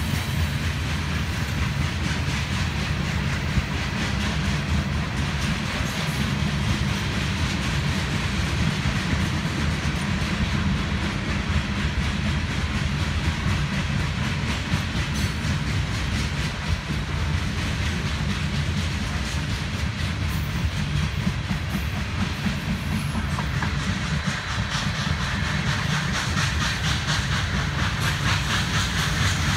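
Covered hopper cars of a grain train rolling steadily past, a continuous rumble with the wheels clicking over the rail joints.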